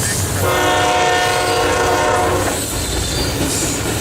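Union Pacific diesel locomotive's air horn blowing a multi-note chord for about two seconds, starting shortly after a brief gap from the previous blast, over the low rumble of the approaching stack train.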